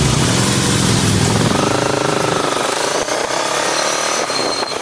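Motorcycle engine running, its pitch rising and falling, over steady road noise.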